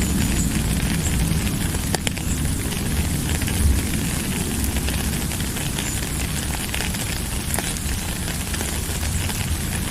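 Steady rain: a dense, even hiss with scattered crackling drop ticks over a low rumble.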